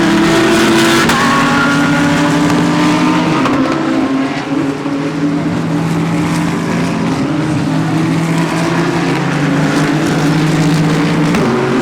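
GT3 race car engines running hard at racing speed. The engine notes hold steady, then step down and up in pitch a few times as the drivers shift gears.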